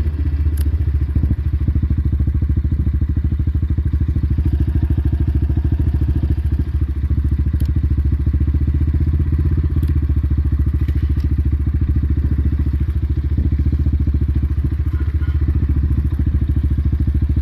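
Motorcycle engine idling steadily, an even low throb with no change in speed.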